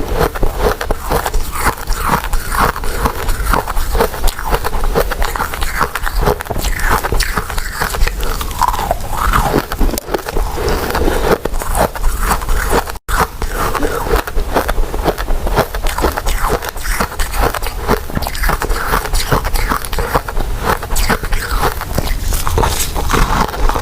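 Close-miked chewing and mouth sounds: a steady run of soft, sticky clicks and smacks from eating chewy glutinous rice cakes and mochi, with a brief cut about halfway through.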